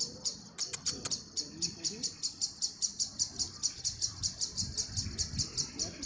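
A bird calling with a steady, rapid run of short high chirps, about seven a second, after a brief pause at the start.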